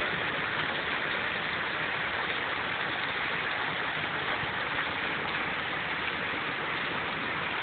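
Hailstorm: heavy rain and hail pouring down in a steady, dense rush.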